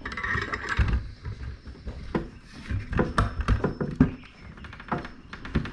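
Irregular clicks and knocks of tools and metal parts being handled as a wrench is worked against the seized impeller of a Kawasaki 650SX jet ski pump.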